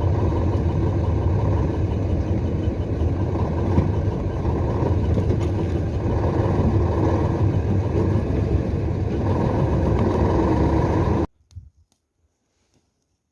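A vehicle engine running steadily with a loud, low drone, which cuts off suddenly about eleven seconds in.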